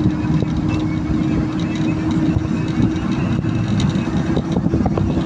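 Vehicle driving along a road: steady engine and road noise, a low rumble with a constant hum.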